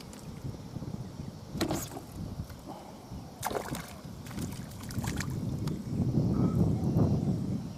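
Wind rumbling on the microphone over water sloshing and lapping, growing louder near the end, with a few sharp knocks about two seconds apart.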